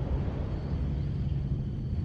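Steady low rumble of seaside outdoor ambience, with a faint thin high tone above it.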